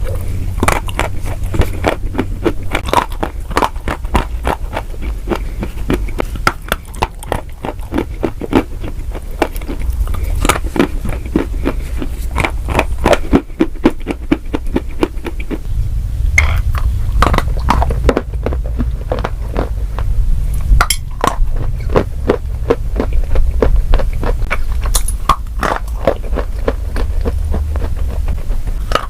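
Close-miked chewing of crunchy food, a continuous run of sharp crackling crunches several per second over a low rumble.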